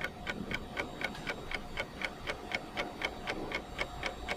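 Steady, even ticking, about four ticks a second.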